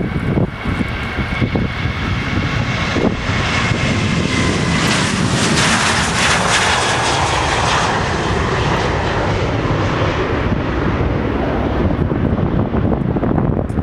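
Jet aircraft engines passing by, the noise swelling to a peak about six seconds in and then easing off, with a faint steady whine under the rush. Wind buffets the microphone.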